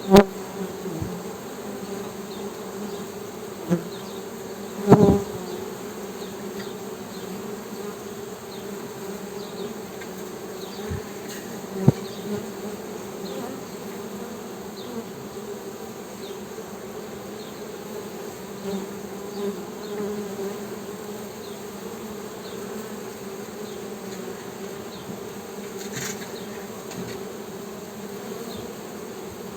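Honey bees buzzing in a steady, continuous hum. A few brief knocks come through, the loudest near the start and about five seconds in.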